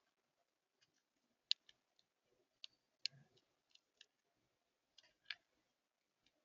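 Birds at a feeder: a scattering of faint, sharp ticks, about a dozen, at irregular intervals over near silence.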